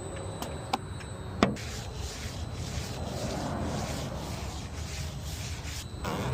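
Quick repeated strokes of a tool scraping and rubbing across window glass while window film is fitted, after a few sharp clicks at the start.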